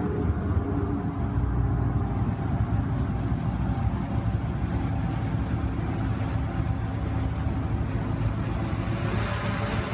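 Walkera QR X350 Pro quadcopter in flight, its propellers humming with faint wavering tones over a steady low rumble; the propeller hiss grows near the end.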